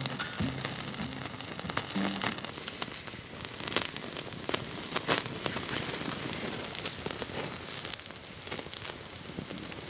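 Wood campfire crackling, with frequent sharp pops and snaps over a soft steady hiss.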